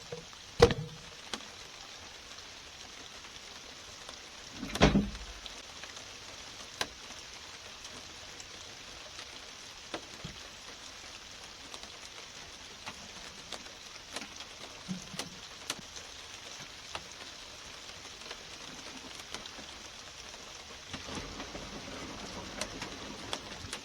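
Steady rain falling, with scattered sharp ticks of drops striking the camera close to the microphone. Two louder knocks stand out, one near the start and a heavier one about five seconds in.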